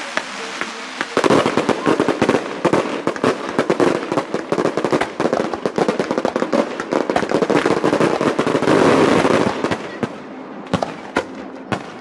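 Fireworks crackling and popping: a dense, rapid run of sharp pops starts about a second in and thins out to scattered pops near the end.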